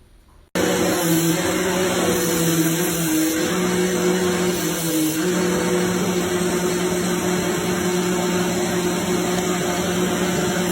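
Vacuum cleaner running, a loud steady motor whine with a hum under it that starts abruptly about half a second in; its pitch sags briefly about midway.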